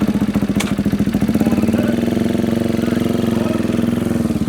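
Motorcycle sidecar outfit's engine idling close by, a steady, fast, even firing beat. A single sharp click about half a second in.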